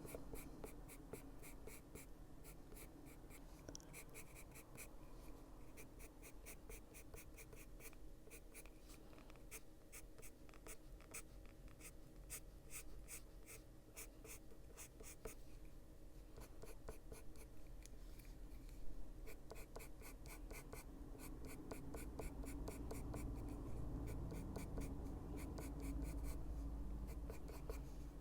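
Caran d'Ache Luminance coloured pencil scratching on paper in quick short strokes, several a second, as brown is shaded in.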